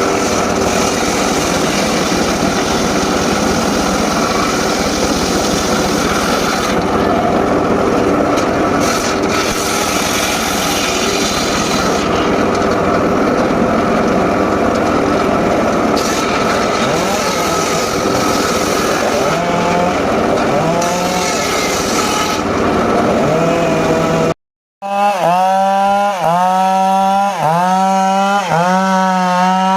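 Homemade circular saw bench cutting teak, the blade running through the wood in a loud, continuous whine with machine noise. After a brief break about 24 seconds in, the saw's pitch rises and falls about once a second.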